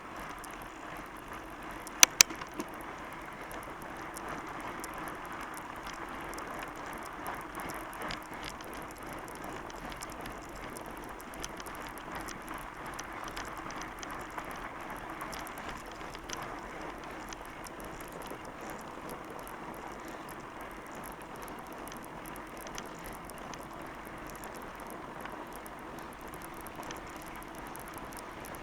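Fat bike riding along a trail, with steady tyre rolling and drivetrain noise and two sharp clicks about two seconds in.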